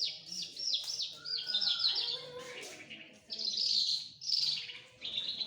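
Songbird singing in quick bursts of high, rapidly repeated down-slurred notes, with short pauses between the bursts and a lower sliding whistle about two seconds in.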